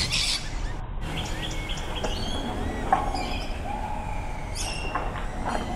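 Birds chirping, with short high calls scattered through, over a steady low background rumble.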